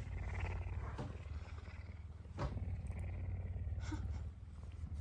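Pet puma purring loudly and continuously, a deep, rapid pulsing hum with a short break about four seconds in: a hungry puma purring to ask for food.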